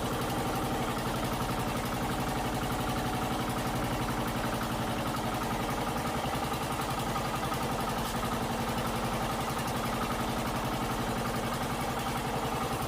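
Fishing bangka's engine running steadily at a constant speed, with an even, rapid pulse.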